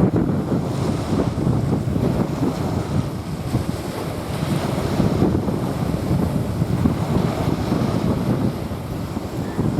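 Small waves washing onto a sandy beach, with wind buffeting the microphone in low, gusty rumbles.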